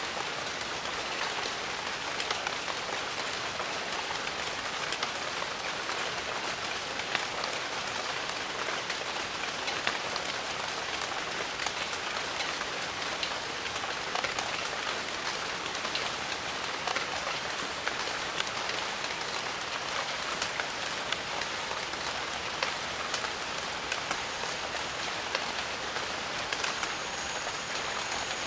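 Steady rain: an even hiss with many separate drop hits standing out against it.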